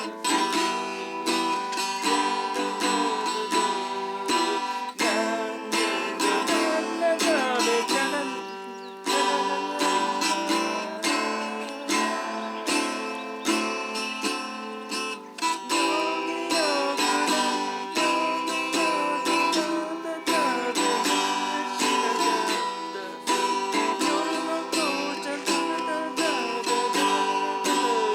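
Acoustic guitar strummed in a steady, continuous rhythm.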